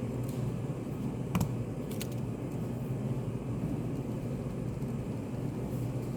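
Study cafe room ambience: a steady low background noise, with a few small sharp clicks about one and a half and two seconds in.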